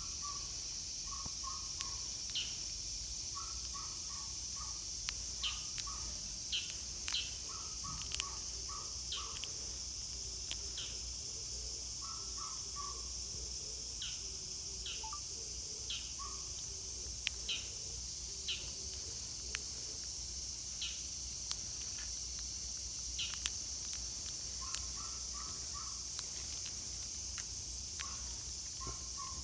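Steady high-pitched insect chorus, with a bird calling in short runs of three or four quick notes every few seconds and scattered sharp clicks.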